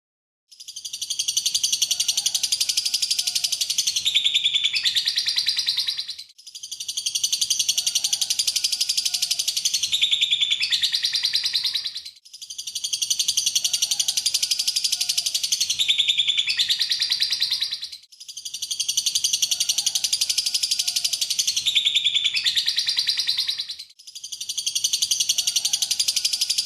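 Lovebird song, a long rapid high-pitched chattering trill, played as a loop: the same phrase of about six seconds repeats four times with short breaks between, starting about half a second in.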